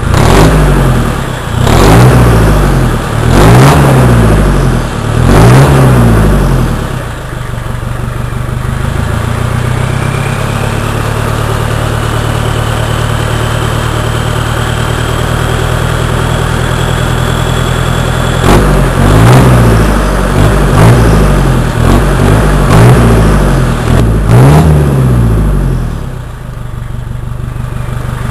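Nissan 2.7 turbo diesel four-cylinder with a straight-pipe exhaust, revved three times, then idling while a thin high whistle rises slowly, then revved five quick times and settling back to idle. Its turbo whistles over the engine note, the reference sound of a healthy turbo.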